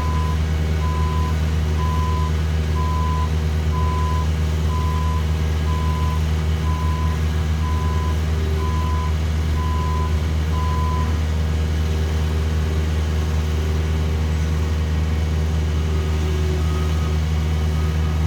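Heavy paving equipment's diesel engines running steadily, with a backup alarm beeping about once a second that stops about two-thirds of the way through. Near the end a fainter, slightly higher-pitched backup alarm from another machine starts beeping.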